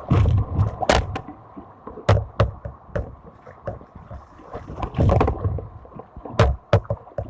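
A kayak running through a shoal: water rushing and splashing, with sharp, irregular knocks and low thumps against the boat.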